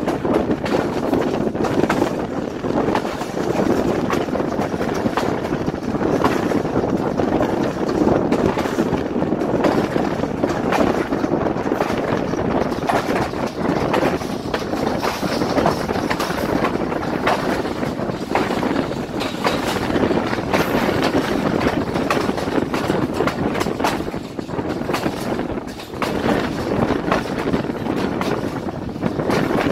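Passenger train coaches running along the track, heard from on board: a steady rumble of wheels on rails with frequent sharp clicks and knocks from the rail joints.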